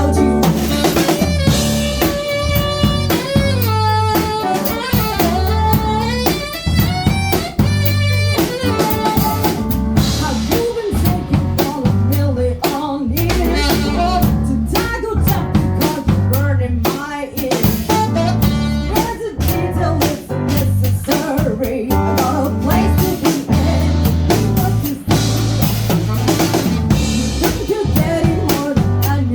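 Live jazz-funk band playing: a drum kit keeping a steady groove with snare rimshots and bass drum, under a bass line and a melodic lead line.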